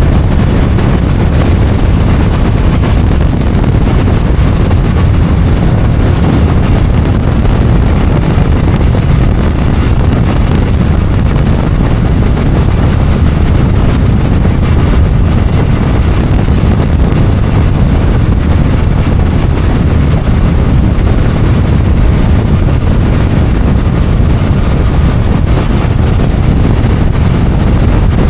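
Riding noise from a BMW F800GS motorcycle on the move: wind buffeting the microphone over the parallel-twin engine and road noise, loud and steady with no change in pace.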